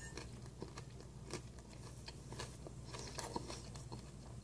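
Close-up chewing of a waffle, egg and bacon sandwich: soft, irregular mouth clicks and smacks over a faint steady low hum.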